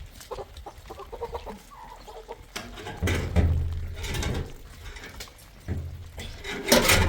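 Chickens clucking in short calls, with louder rustling and knocking noises that come in about three seconds in and again near the end.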